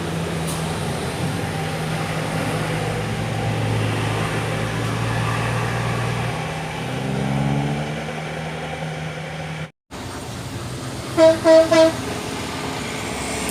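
Heavy diesel truck engine running under load on an uphill climb, its pitch rising about seven seconds in. After a brief dropout, a truck horn gives three short toots near the end.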